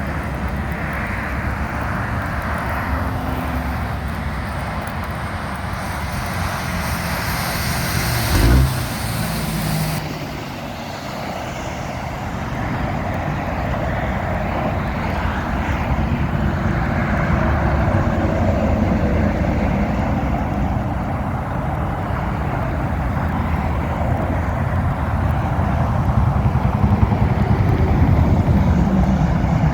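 Highway traffic on wet pavement: heavy trucks and cars passing, with a steady rumble and tyre hiss that swells as vehicles go by. There is a brief low thump about eight seconds in.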